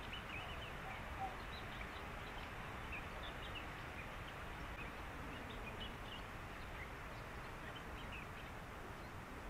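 Reed-bed ambience with many short, faint, high chirping calls from small animals scattered over a steady background hiss.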